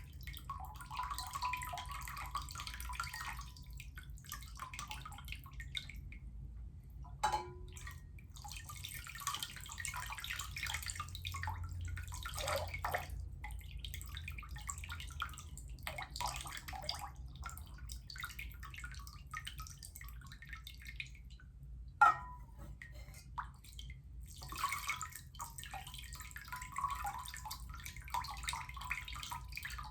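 Water splashing and trickling in irregular spells, with short pauses between them. A sharp knock about 22 seconds in is the loudest moment, and a smaller click comes about 7 seconds in.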